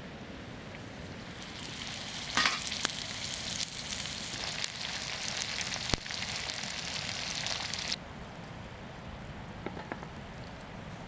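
Food frying in a hot pan, a loud even sizzle with a couple of sharp pops. It starts about a second and a half in and cuts off suddenly about eight seconds in, leaving a quieter low background.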